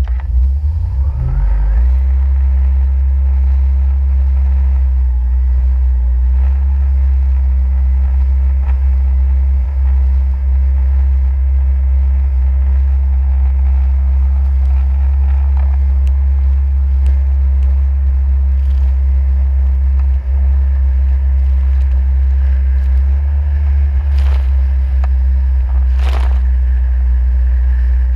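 Jet ski engine running steadily with a heavy low rumble, its pitch rising briefly about a second in. Two short sharp knocks near the end.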